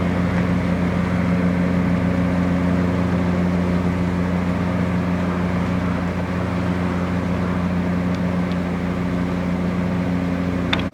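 Sightseeing cruise boat's engine running steadily, heard on board as a low, even drone with a few steady hum tones. It cuts off suddenly at the very end.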